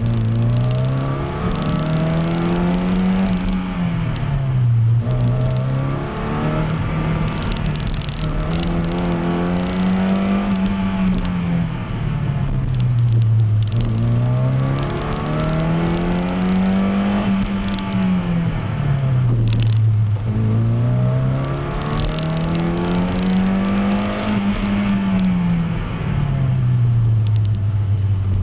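1979 Fiat X1/9's mid-mounted four-cylinder engine, heard from inside the cabin on a slalom run. The revs climb and then drop back sharply four times, about seven seconds apart, as the car accelerates and slows between the cones.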